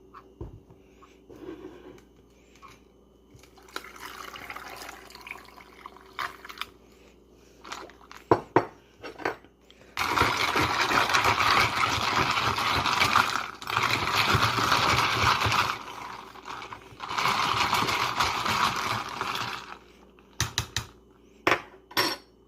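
Liquid being poured into a cup or glass in three long pours, each about three seconds, with clinks and knocks of kitchenware before and after.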